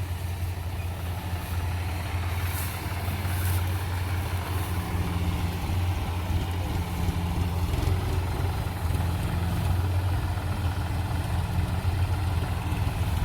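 Diesel engine of farm machinery running steadily at a constant speed, a low hum.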